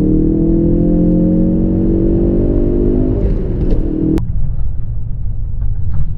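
Ford Focus RS's turbocharged 2.3-litre EcoBoost four-cylinder pulling hard in gear, heard from inside the cabin, its note rising steadily for about four seconds. Then the engine note drops away suddenly, leaving a low road rumble: the driver lifting off for a normal upshift, where the engine falls out of boost.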